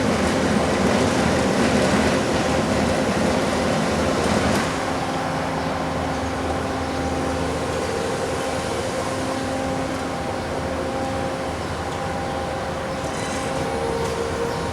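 Bobcat skid steers' diesel engines running under load during road milling and sweeping: a steady heavy machine drone. It is louder and harsher for the first four and a half seconds, then drops a step and holds steady.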